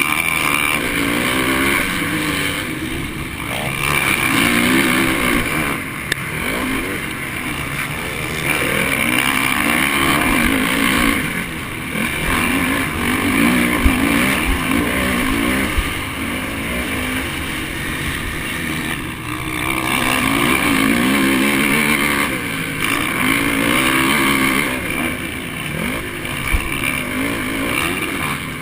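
Honda 450 motocross bike's single-cylinder four-stroke engine under race load, revving up and falling off again and again, its pitch and loudness swelling and dropping every few seconds.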